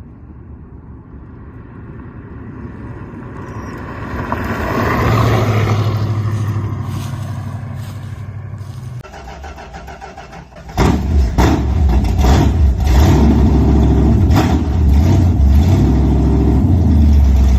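A car's Chrysler 361 V8 engine running: it grows louder over the first five seconds, then fades away. About eleven seconds in, much louder engine noise starts abruptly and surges over and over until the end.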